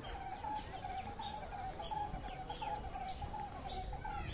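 Many birds chirping, with lots of short, quick falling calls overlapping over a steady wavering hum and a low rumble.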